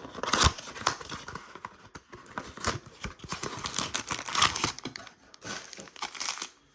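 Trading card packaging being torn open and crinkled by hand: irregular crackling and tearing of plastic wrap and foil pack wrappers.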